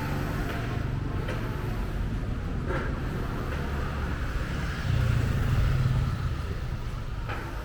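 Street traffic: a steady low rumble of cars, with a vehicle passing close and loudest about five to six seconds in.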